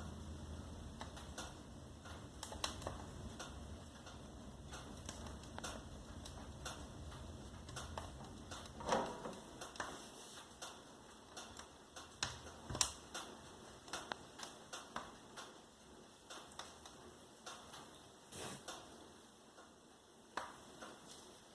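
Wood fire in a fireplace crackling, with irregular sharp pops and snaps. A low rumble dies away about halfway through.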